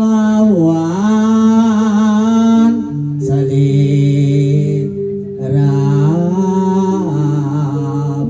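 A singer performing a Javanese campursari-style song live, holding long, wavering notes over steady held instrumental chords. The vocal phrase dips in pitch about a second in, and a new phrase starts about two-thirds of the way through.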